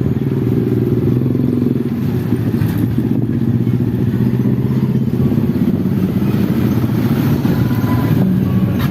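An engine running steadily at a constant low pitch.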